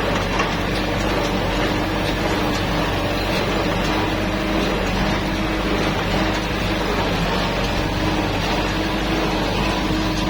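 Kubota tractor's diesel engine running at steady revs in second gear, a constant drone with no change in pitch.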